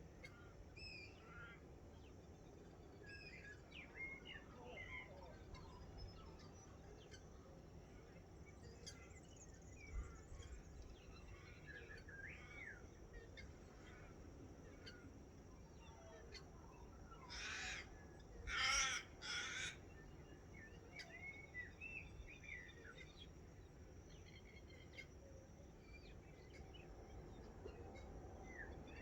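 Dawn chorus of many birds chirping and whistling faintly, with three loud calls in quick succession about two-thirds of the way through.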